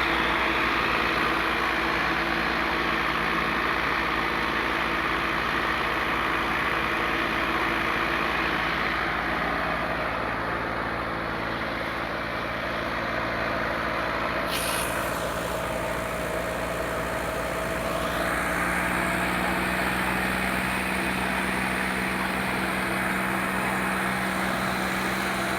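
Tractor engine running steadily, its note shifting about eighteen seconds in.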